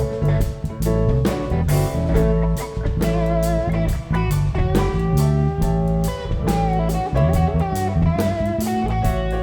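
A rock band playing live, without vocals: guitar lines over a drum kit keeping a steady beat, with low bass notes underneath.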